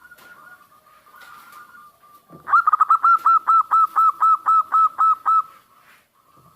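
Zebra dove (perkutut) calling: a loud, fast run of about a dozen short notes, roughly four a second, each rising and then falling in pitch. A faint, steady high tone comes before it.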